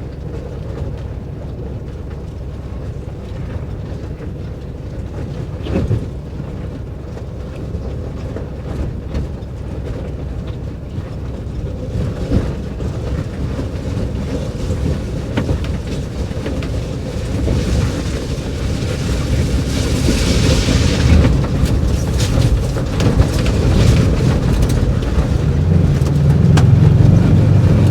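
1958 VW bus creeping down a steep rocky trail in four-low: engine running low with the tyres rumbling over rocks. One knock comes about six seconds in, a rushing hiss around twenty seconds in, and the engine and rumble grow louder near the end.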